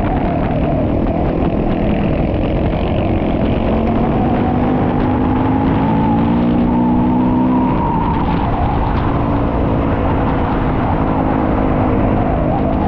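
Single-cylinder four-stroke dual-sport motorcycle engine running on a ride, its pitch rising and falling with the throttle, over a steady rush of wind and tyre noise.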